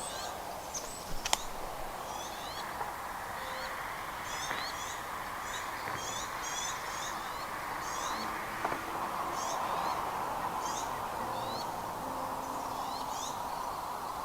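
High-pitched bird chirps, short notes repeating every half second or so, over a steady background hiss. One sharp click about a second in.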